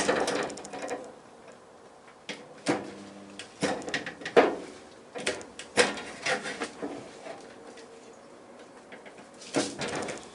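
Irregular sharp knocks and clanks of metal being handled and struck during bodywork on a car shell, the loudest right at the start, with a faint steady hum underneath.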